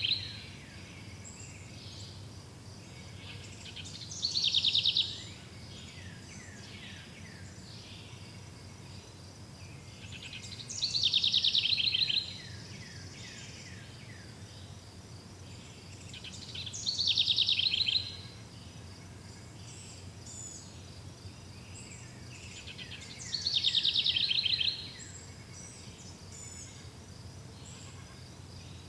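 Forest ambience: a loud, high, rapid trill about a second long recurs roughly every six seconds, five times, over a steady background of faint high chirps and a low hum.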